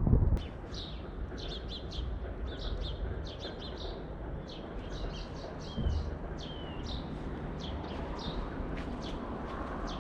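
Small birds chirping, many quick high notes and a few short falling whistles, repeating over a steady low wind rumble. A loud low gust or bump at the very start cuts off quickly.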